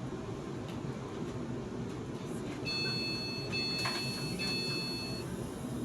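Steady rumble inside a train carriage, with a high electronic warning tone sounding three times in a row about halfway through and a short knock during it.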